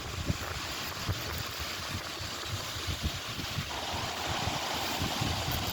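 Wind buffeting the microphone outdoors: an irregular low rumble over a steady hiss.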